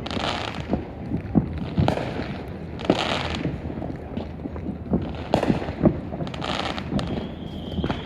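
Fireworks going off: a rapid, irregular series of sharp bangs and booms, with patches of crackling between them, and a brief whistle near the end.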